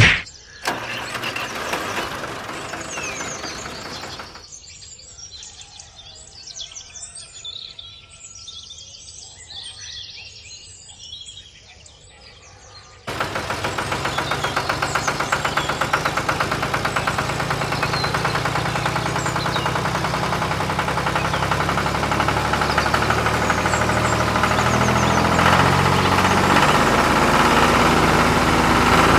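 Small birds chirping and calling. About halfway through, a small engine cuts in abruptly and runs steadily with a fast, even rhythm.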